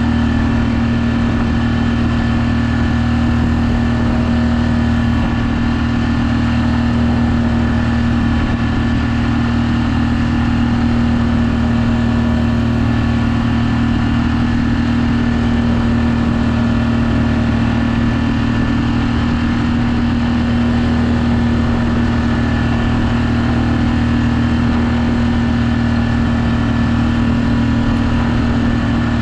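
A sailboat's auxiliary engine running at a steady speed, an even drone that does not change in pitch or level.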